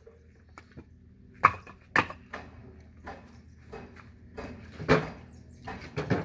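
Firewood being split by hand: a run of sharp wooden knocks, four louder strikes with smaller knocks and clatter between them.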